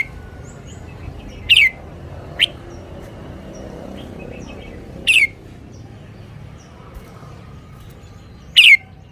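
Red-whiskered bulbul calling: four loud, short notes that slide downward in pitch, coming a second to three seconds apart, with faint chirps between them.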